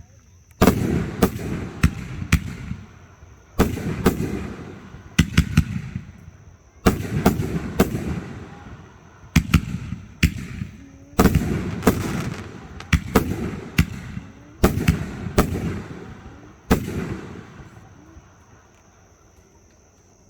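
Fireworks bursting in quick succession: sharp bangs, often in pairs or threes, each trailing off in a rumbling echo. The last bang comes about three seconds before the end, and the sound then fades out.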